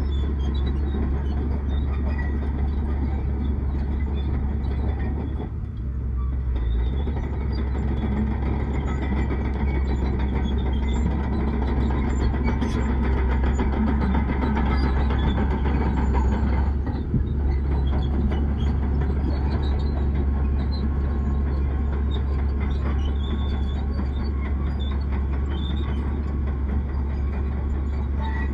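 Diesel engine of heavy earthmoving machinery running steadily, a low drone with rough machine noise over it and two brief dips in level.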